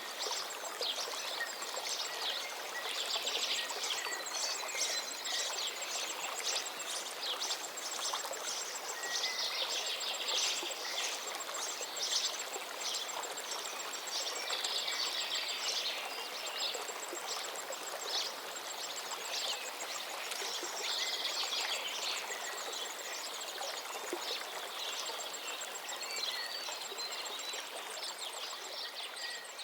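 A river flowing steadily, with songbirds singing over it in short phrases every few seconds and a thin, rapid high trill running through much of it.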